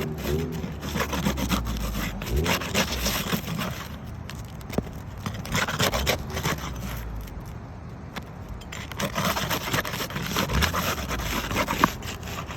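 Metal shingle snake tool scraping and rubbing against asphalt roof shingles as it is worked under a damaged shingle. The scraping comes in irregular strokes with scattered sharp clicks.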